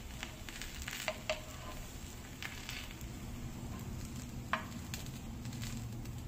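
A dosa frying in ghee on a hot tawa, sizzling steadily. A wooden spatula lifts and turns it, giving a few sharp clicks and scrapes against the pan.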